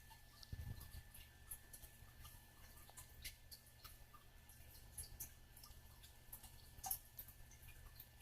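Faint, irregular clicks and small nibbling sounds of a monk parakeet's beak mouthing and nipping at a finger, with one louder click near the end.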